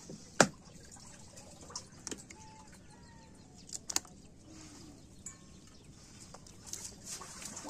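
A sharp knock about half a second in and a few fainter knocks later, over faint bird chirps and lapping water, with splashing near the end.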